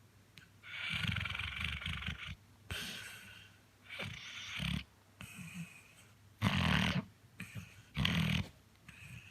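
Chocolate Labrador retriever snoring in its sleep: a run of about five uneven snoring breaths, the two loudest near the end.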